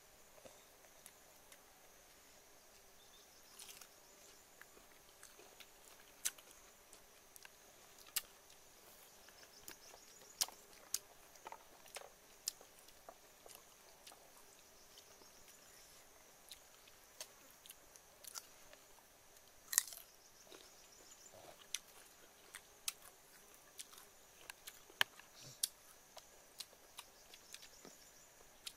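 Bites and crunchy chewing of firm mango slices: scattered sharp crunches at irregular intervals, some louder than others. A faint steady high hum runs underneath.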